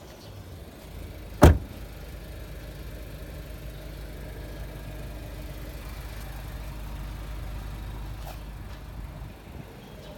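Low, steady rumble of the 2016 Audi A3 sedan, with one sharp, loud thump about a second and a half in and a faint click near the end.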